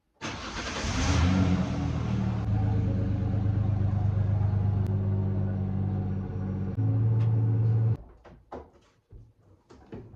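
2009 Ford Ranger's engine running steadily, briefly louder near the end, then switched off abruptly about eight seconds in.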